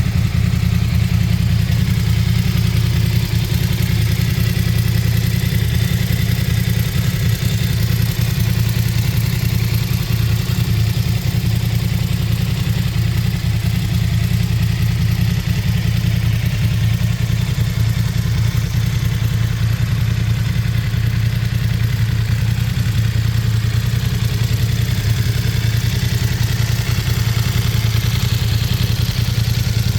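BMW F900 XR's parallel-twin engine idling steadily on its stock exhaust.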